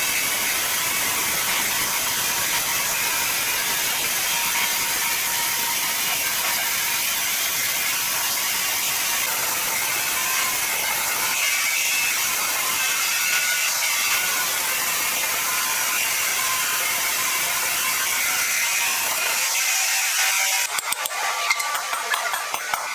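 Sawmill machinery running with a steady, high-pitched mechanical noise. Near the end the low rumble drops away and a quick run of sharp clicks and rattles follows.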